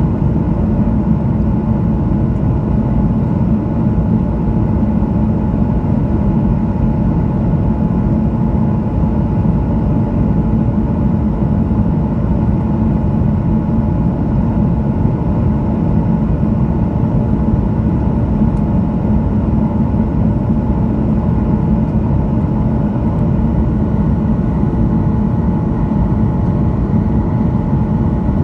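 Steady in-flight noise of a Boeing 737-900ER on approach, heard inside the cabin: the hum of its CFM56-7B engines and airflow over the fuselage. A deep rumble carries a few faint steady tones, and it runs unchanged throughout.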